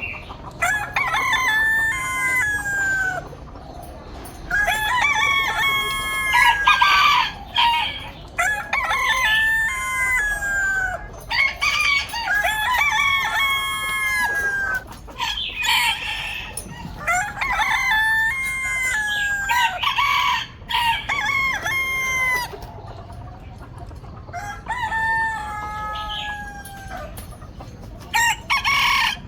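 Roosters crowing one after another, a long crow with stepped, falling pitch about every three seconds, with a short lull about three quarters of the way through.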